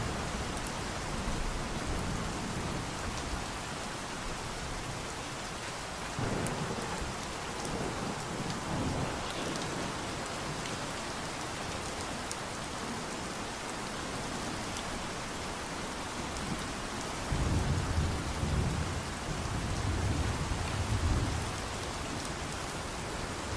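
Steady rain falling, with fine drop ticks through it. Low rolls of thunder swell up about six seconds in and again for several seconds near the end.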